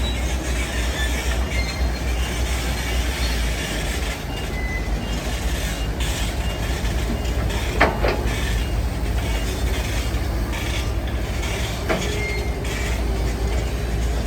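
Heavy diesel construction machinery running with a steady low rumble, with short high metallic squeaks and one sharp metal clank about eight seconds in.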